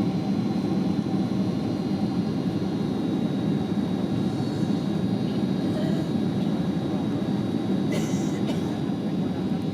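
Steady cabin noise of a Boeing 767 airliner: a low rumble of engines and airflow with a faint steady high whine. A short, higher hiss comes about eight seconds in.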